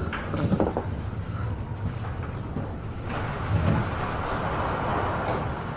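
Storm at sea aboard a fishing boat: a steady low rumble with wind and sea noise, and a louder rush of water from about three seconds in, lasting a couple of seconds.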